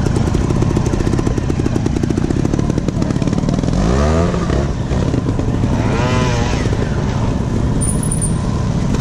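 A TRS trial motorcycle engine running at low revs with a rapid, even pulse while climbing a steep slope. It is revved up and back down twice, about four and six seconds in.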